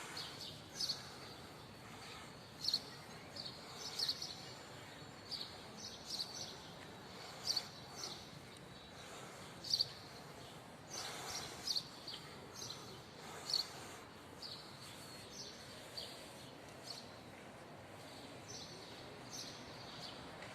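Birds chirping: short high chirps repeating irregularly, about once or twice a second, over a steady outdoor background hiss.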